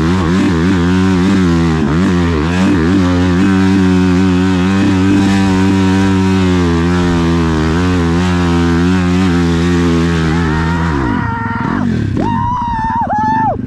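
Dirt bike engine held at high revs under load, steady with slight wavering, then dropping away as the throttle is cut about eleven seconds in.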